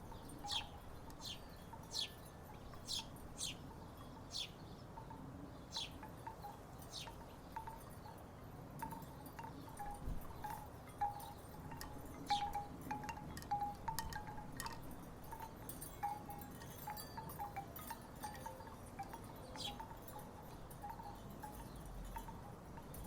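Wooden tiki wind chimes knocking together in the breeze: irregular hollow clonks, sparse at first, then denser and louder in the middle.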